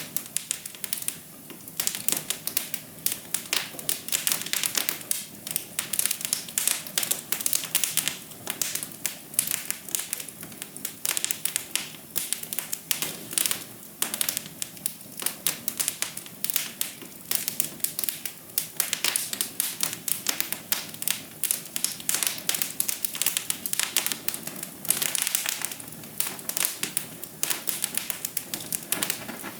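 Wood fire crackling in a fireplace: a dense, irregular run of small pops and snaps, with a cluster of louder snaps near the end.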